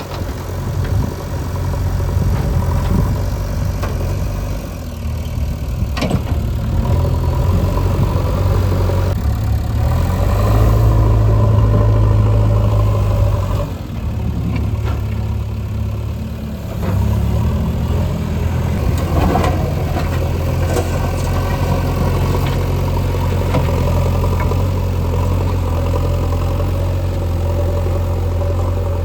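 Diesel engine of heavy construction machinery running close by, its note swelling under load about ten seconds in, dropping back around fourteen seconds and picking up again around seventeen seconds. A sharp knock is heard about six seconds in.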